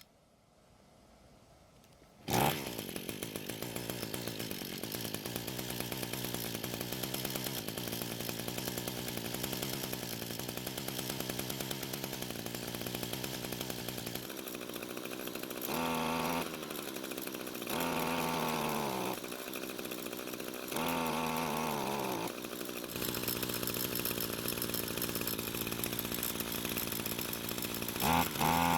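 Echo string trimmer's small two-stroke engine starting about two seconds in and idling, then revved in several short throttle bursts that rise and fall in pitch. It is not running right: setting the choke to halfway to richen the mixture does not help.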